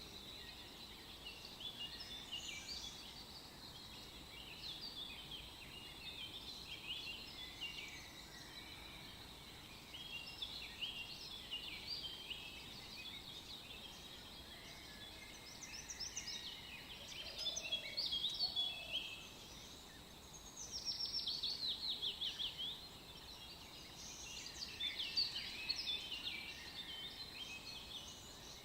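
Songbirds chirping and singing over a low background hiss, with a fast trill of falling notes about three quarters of the way through.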